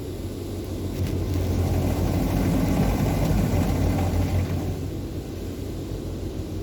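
PDQ Laserwash G5 touch-free car wash running, heard as a steady low rumble that swells in the middle and eases off near the end.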